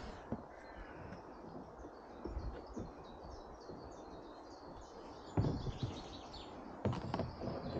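Small birds chirping in short repeated calls over a low outdoor rumble, with a couple of louder bumps and knocks about five and a half and seven seconds in.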